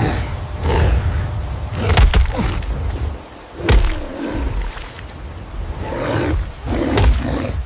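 Big-cat roars and snarls in a film-style sound mix, coming in repeated bursts, with sharp thuds breaking in about two seconds in, at about three and a half seconds, and near the end.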